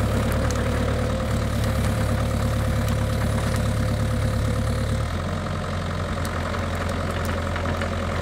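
Bobcat E42 mini excavator's diesel engine running steadily at half throttle. Its note changes about five seconds in.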